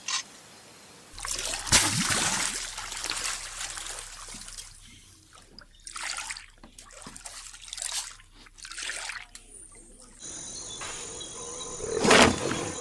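Water splashing and trickling in irregular bursts, with a louder splash near the end.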